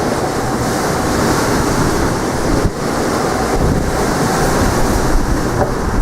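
Strong wind buffeting the microphone in a loud, rumbling rush, with sea surf underneath; the noise briefly dips about two and a half seconds in.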